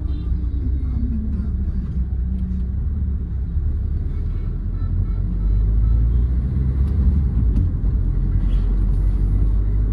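Engine and road rumble of a 2008 Hyundai Verna 1.6 turbo diesel on the move, growing louder a little over halfway through.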